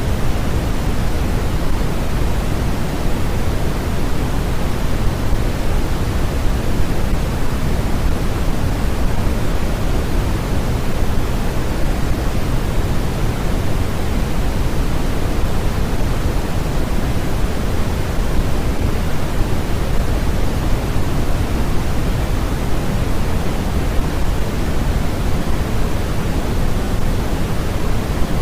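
Steady generated noise, sold as white noise, an unchanging even hiss with more weight in the low end than the highs.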